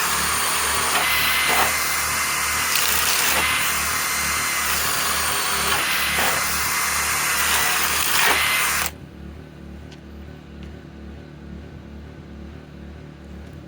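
Masterforce Boost cordless hammer drill boring an 11/16-inch bit into the edge of plywood, running steadily under load. It stops abruptly about nine seconds in.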